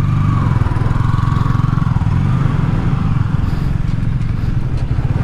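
Yamaha R15 V3 motorcycle's single-cylinder engine running steadily.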